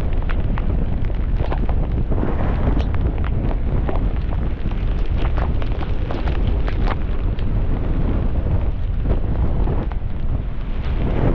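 Strong wind buffeting the microphone: a constant heavy rumble, with many irregular sharp taps and crackles on top.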